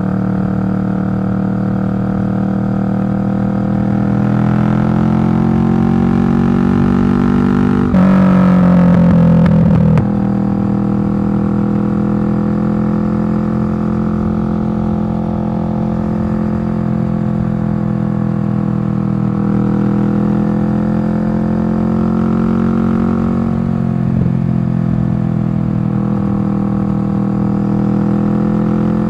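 Kawasaki Vulcan 650's parallel-twin engine running through a Delkevic slash-cut aftermarket exhaust, the pitch climbing as it accelerates. About eight seconds in, a brief louder stretch ends in a sharp drop in pitch. After that it runs steadily, with gentle rises and falls in engine speed.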